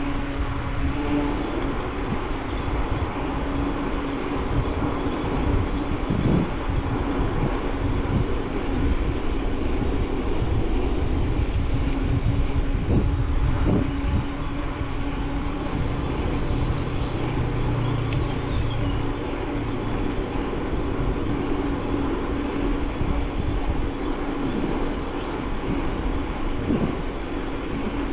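Riding noise of a bicycle heard from a bike-mounted camera: steady tyre rumble and wind noise, with a constant low hum.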